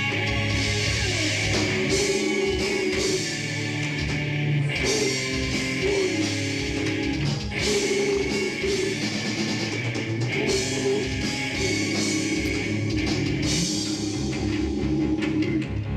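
Live rock band playing: guitars and drum kit, with a singing voice over them.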